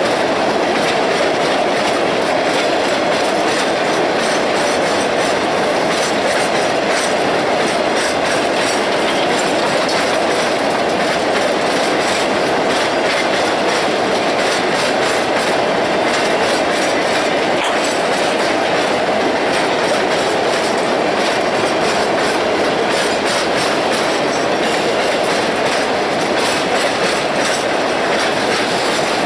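Ore train cars rolling past, steel wheels clicking over the rail joints in a steady, unbroken run.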